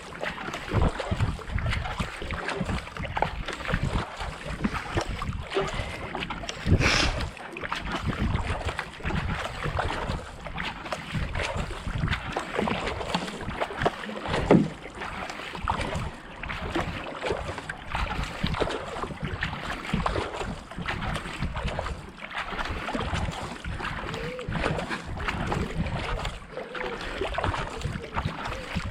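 Kayak paddle strokes: the blades dip and splash into the water one after another as the paddler works at racing pace. There is a louder sharp hit about seven seconds in and another about halfway.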